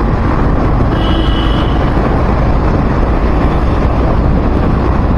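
Steady rush of a moving vehicle's road and wind noise in city traffic. A brief, thin high tone sounds about a second in.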